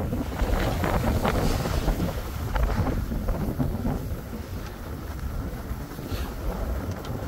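Wind buffeting the microphone in a steady low rumble while skiing downhill, with a few faint ticks.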